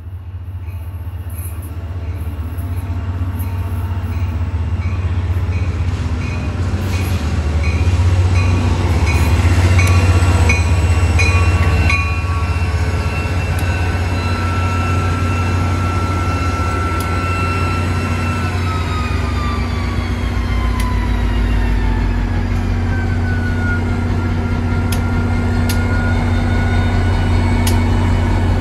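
New Jersey Transit commuter train coming in, growing louder over the first several seconds with a deep steady hum. Past halfway, its electrical whine falls in pitch as the train slows, then holds steady.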